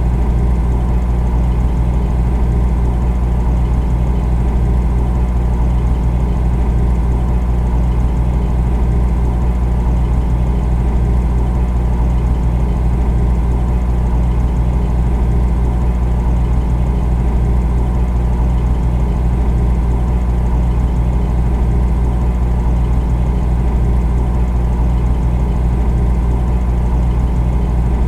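Refrigerator running with a steady low hum.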